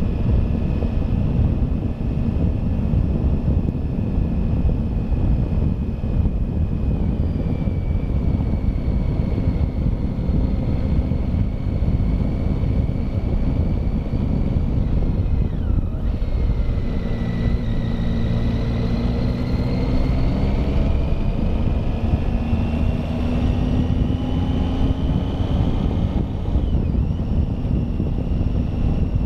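Triumph Tiger motorcycle engine running under heavy wind noise on the microphone while riding uphill. The engine pitch falls sharply about halfway through and again near the end, as at gear changes, and climbs slowly in between as the bike pulls.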